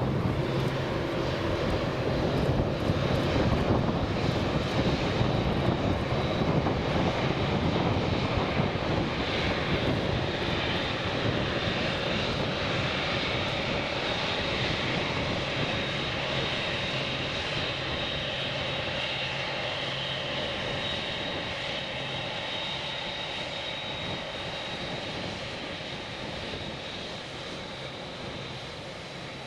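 Jet noise from a Boeing 747-8F's four GEnx-2B engines, a steady rush with a high whine, fading gradually as the aircraft moves away.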